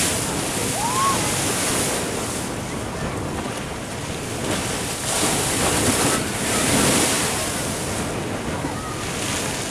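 Ocean surf breaking and washing against a sea wall, swelling and ebbing several times, with wind buffeting the microphone.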